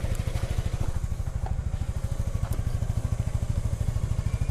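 Motorcycle engine running steadily under way, a fast even low pulsing of its firing with no change in speed.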